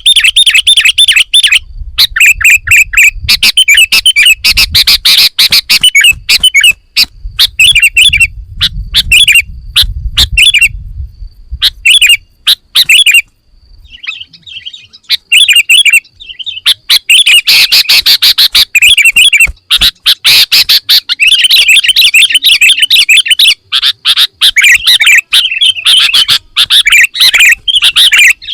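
Sooty-headed bulbul (kutilang) singing a loud, fast, varied song of rapid chirps and phrases, its 'isian' of mixed-in calls of other birds, almost without break apart from a short pause about halfway through.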